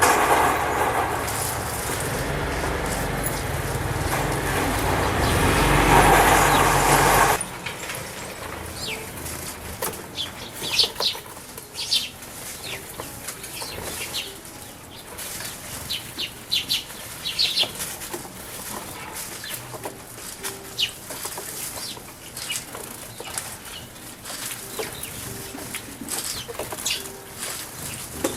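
Tree sparrows bathing in a bird bath, splashing water and fluttering their wings. A loud, dense splashing for the first seven seconds cuts off suddenly, then quieter scattered splashes and flutters follow, with short high chirps.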